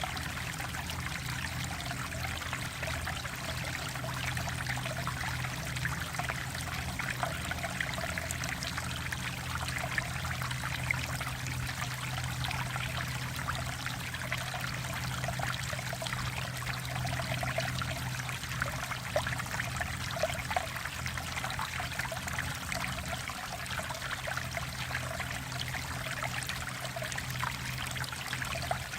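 Mountain valley stream running steadily: a continuous trickling, babbling flow with many small splashes and gurgles.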